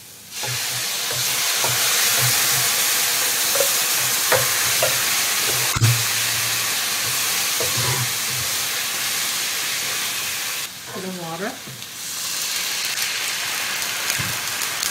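Lion's mane mushroom pieces sizzling in hot oil in a pan, the sizzle starting up suddenly as coconut cream is poured in, with a spatula stirring and knocking against the pan. The sizzling dips for about a second near the end, then resumes.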